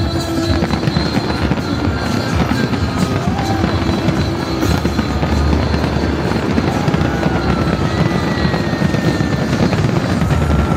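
Large aerial fireworks display going off in a dense, continuous barrage of crackling and banging, with music from the show's loudspeakers underneath.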